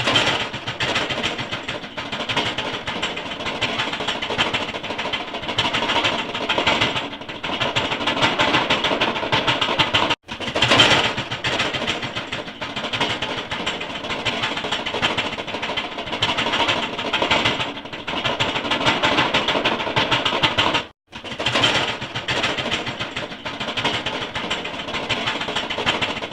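A machine running with a fast, continuous rattling clatter, cut off briefly twice.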